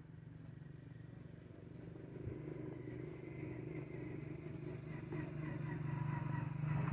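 Old Ruston Hornsby stationary diesel engine running with a steady, rapid pulsing beat, growing gradually louder through the second half.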